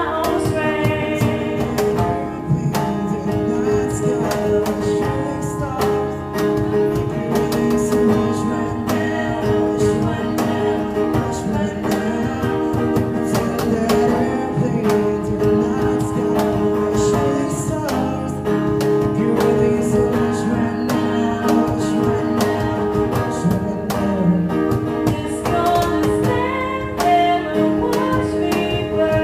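Acoustic guitar strummed steadily while voices sing over it.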